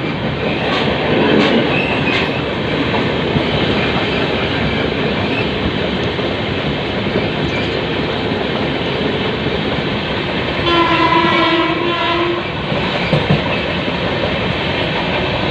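Express train running along the track, a loud steady rush of wheel and rail noise. About eleven seconds in, a train horn sounds one steady blast of under two seconds.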